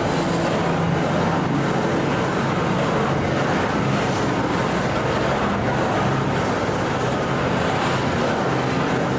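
Diesel freight locomotive running with a steady engine drone over a continuous rushing noise.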